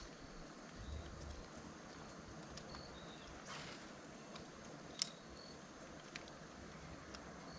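Quiet outdoor lakeside ambience with a small bird's short two-note chirp repeating every couple of seconds, a brief rush of noise about three and a half seconds in, and one sharp click about five seconds in.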